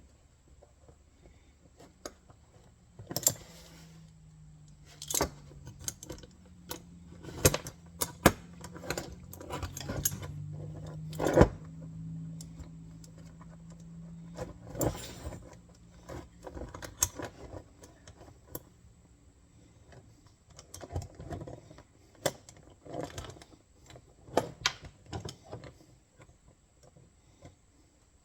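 Steel parts of an MB-550 trap clinking and rattling as bolts and a nut are handled and the nut is started by hand: irregular sharp metallic clicks and clinks. A low steady hum runs through the first half.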